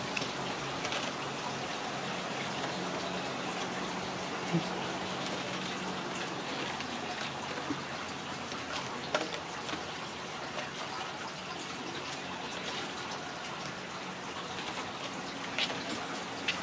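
Steady hiss of rain falling, with a few soft taps and clicks scattered through it.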